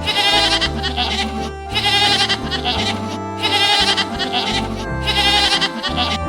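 Background music with steady low notes, over which an animal's wavering bleating call comes four times, about every 1.7 seconds.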